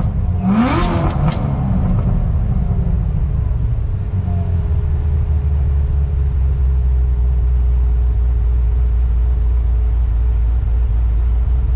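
Supercharged V8 of a 2016 Chevrolet Corvette Z06 with long-tube headers and exhaust, blipped once about half a second in, the pitch rising quickly, then falling back to a steady, deep idle.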